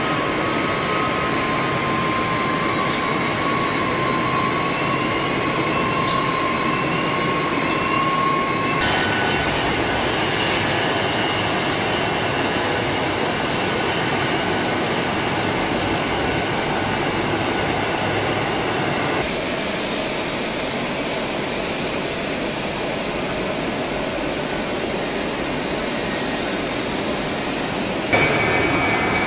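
Jet airliner engines running with a steady rumble and high turbine whine. The sound changes abruptly three times, about nine, nineteen and twenty-eight seconds in, as one engine sound is replaced by another.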